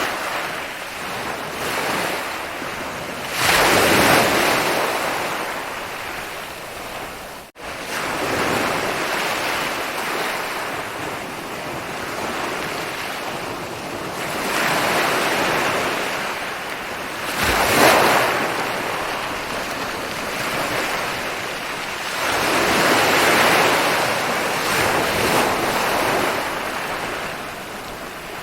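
Ocean surf: waves rolling in and breaking on a beach, a noisy wash that swells and fades every several seconds, the loudest breakers about 4, 18 and 23 seconds in. The sound cuts out for an instant about seven and a half seconds in.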